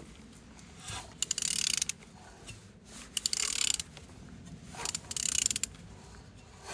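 Ratchet wrench clicking in three short bursts as a used engine is turned over by hand at the crankshaft; the engine turns freely, a sign that it is not seized.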